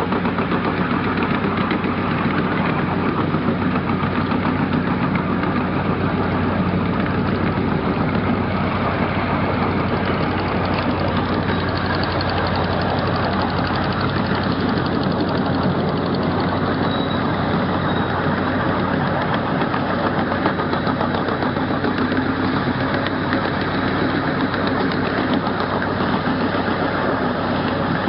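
A 12-inch gauge riding train running steadily along its track, heard from an open passenger car: an even mechanical running noise with a low steady hum and constant rattle.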